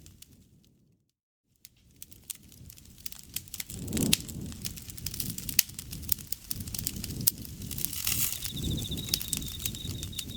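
Wood fire crackling with frequent sharp pops over a low rumble of flame. The sound fades out to silence for about a second near the start and fades back in. A steady pulsing insect trill comes in about eight seconds in.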